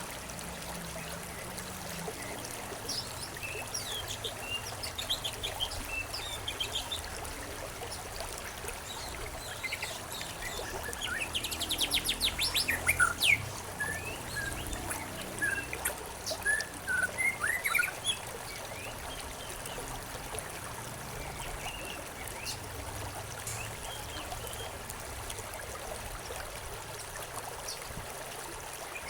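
Small songbirds chirping over a steady trickle of running water. A fast trill and a burst of quick chirps come about halfway through, the loudest part.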